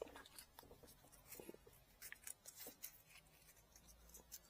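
Faint, irregular light scrapes and small clicks of hand work with a blade on a bamboo fishing rod.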